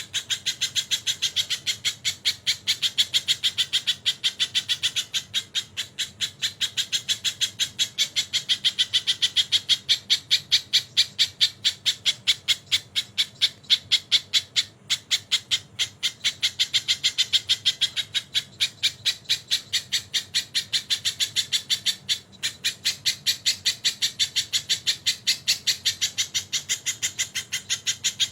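Sogon songbird in full song, delivering kingfisher (tengkek) calls it has learned: a fast unbroken chatter of short harsh notes, about five a second, that swells and eases but never stops.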